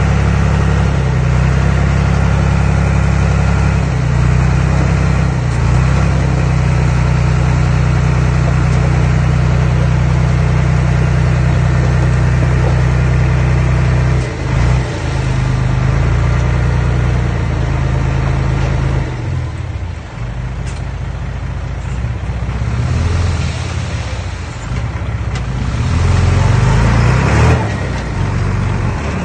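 Heavy earthmoving machine's engine running steadily, with a brief dip about halfway, then quieter and uneven for several seconds before picking up again near the end.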